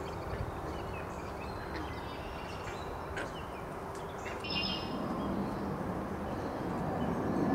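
Wild birds chirping and calling in short notes, with one louder call about halfway through, over a steady low rumble that swells near the end.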